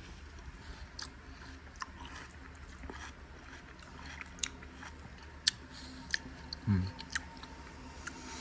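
A person chewing and biting food, with scattered small crisp clicks and a soft low thump about two thirds of the way in.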